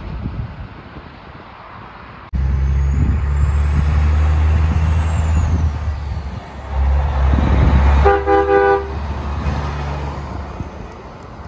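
Diesel truck engine running loud and close with a deep, steady rumble, starting abruptly about two seconds in. About eight seconds in, the truck's horn blows once for about a second.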